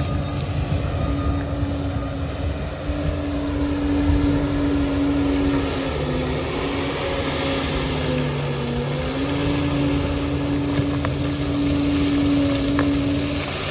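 Liebherr 746 bulldozer's diesel engine running steadily, its pitch dipping slightly for a few seconds in the middle and then recovering.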